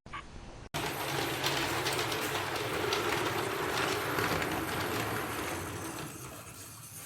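HO-scale electric model train running along the layout track, a steady rolling and motor noise that starts abruptly under a second in and fades a little toward the end.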